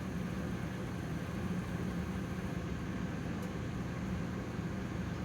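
Steady low hum with a light hiss, constant throughout.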